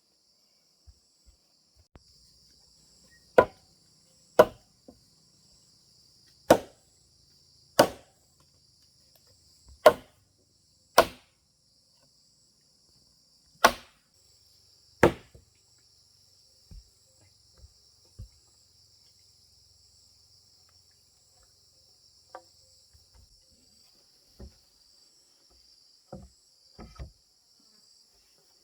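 Eight sharp blows of a hand tool on wood, one to two seconds apart, then a few lighter knocks near the end. Insects chirp steadily throughout.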